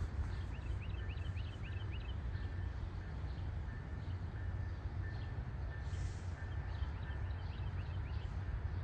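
A small bird chirping in two quick runs of short, rising and falling notes, over a steady low outdoor rumble.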